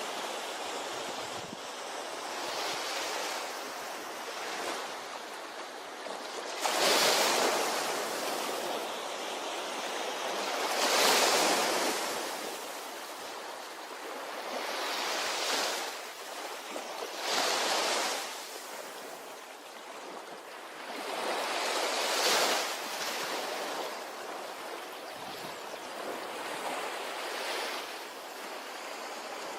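Ocean waves breaking and washing up a beach: a steady rush of surf that swells into a louder break every few seconds, the strongest about seven and eleven seconds in, then falls back.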